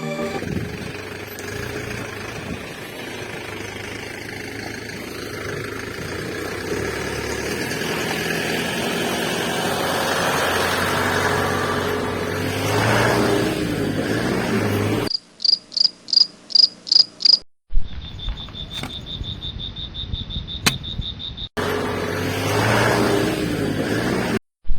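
Crickets chirping, first in short high pulses about three a second, then as a steady high trill, in abrupt cut-together stretches. Before them comes a long stretch of steady noisy hum.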